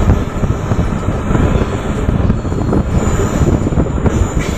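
Passenger train running at speed, a steady loud rumble of wheels on rail heard from an open doorway, with wind rushing over the microphone.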